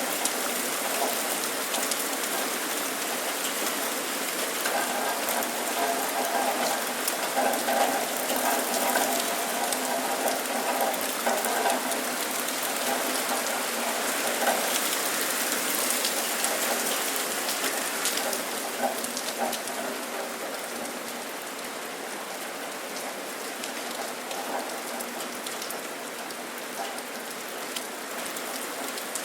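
Steady rain falling, an even hiss of many drops. A faint hum comes and goes in the first half.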